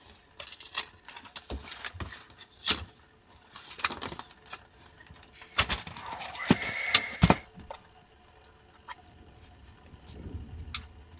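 Scattered sharp clicks and knocks of small objects being handled, with a short faint tone about six and a half seconds in.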